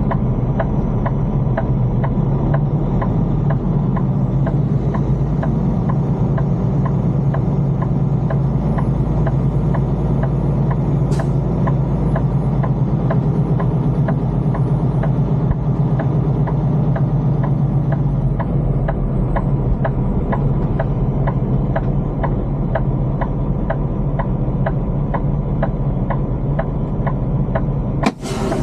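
Semi-truck engine and road noise heard from inside the cab: a steady low drone, with a faint even ticking of about two to three ticks a second. The sound drops out briefly near the end.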